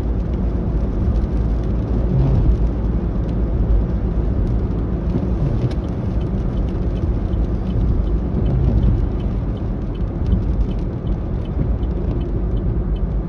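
Truck cabin noise while driving: a steady low rumble of engine and road. In the second half, a faint, quick, regular ticking at about two to three ticks a second.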